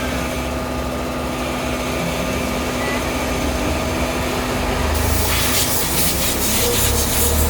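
Pull-out tissue folding machine running with a steady hum and rumble; about five seconds in, a loud hissing rush starts and lasts a couple of seconds, like an air blast, while the low rumble grows stronger.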